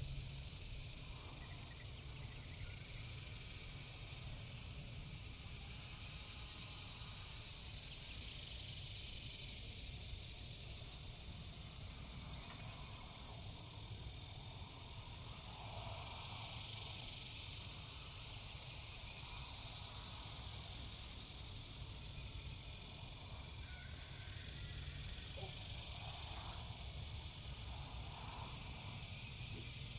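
A steady chorus of insects chirring, high-pitched and swelling and fading slowly, over a low steady rumble.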